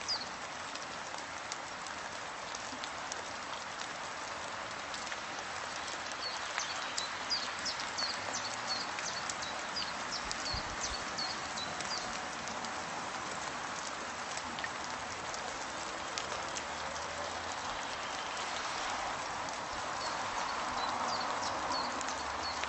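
Steady rain falling, with a bird chirping in quick runs of short high notes from about six seconds in and again near the end.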